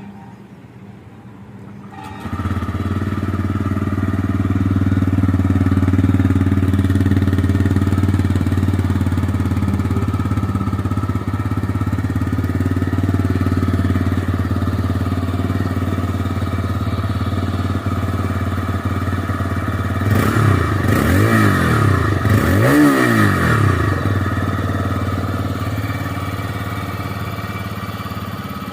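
TVS Raider 125 motorcycle's single-cylinder four-stroke engine idling steadily from about two seconds in. About twenty seconds in it is briefly revved a couple of times, the pitch rising and falling, then it settles back to idle.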